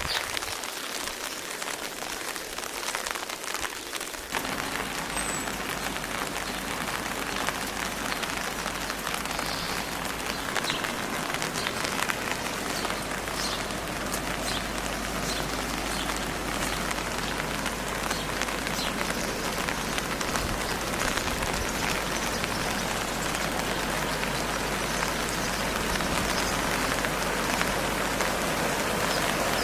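Steady rain falling, with many individual drops ticking on a surface. About four seconds in the sound grows fuller in the low end, and it builds slightly louder toward the end.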